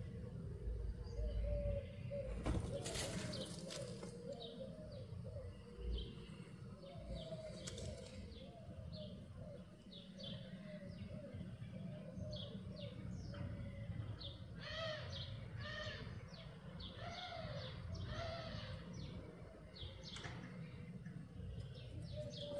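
Small birds chirping repeatedly over a steady low background rumble. A brief burst of noise comes about three seconds in.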